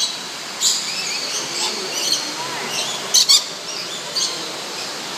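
Many birds calling: short, sharp squawks and scattered chirps over a steady background of bird chatter.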